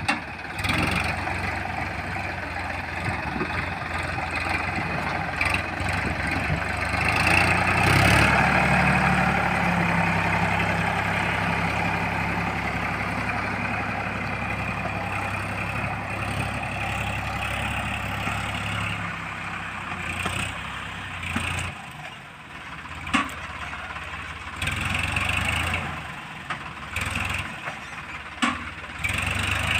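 Diesel engine running steadily, swelling in level about eight seconds in and easing back, then dropping away briefly about twenty-two seconds in, with a few sharp knocks in the second half.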